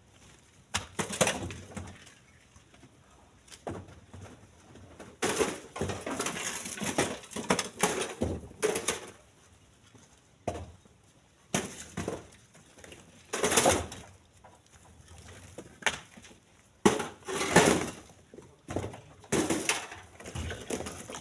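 Split stones being loaded by hand into a truck bed: irregular knocks and clattering of rock landing on rock, some in quick clusters, with short pauses between.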